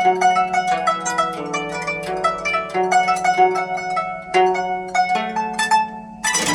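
Guzheng solo: quick, repeated plucked notes over a sustained low note. About six seconds in it dips briefly, then a sudden louder sweep of many strings comes in.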